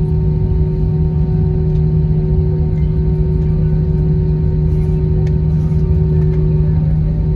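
Steady cabin noise inside an Airbus A321: a constant low engine hum with a couple of steady higher tones over a low rumble.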